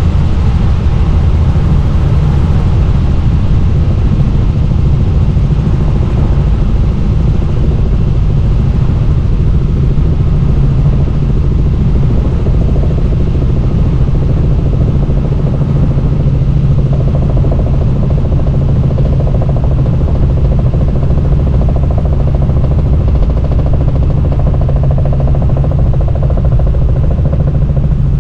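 Helicopter in flight: steady, loud engine and rotor noise with a strong low drone.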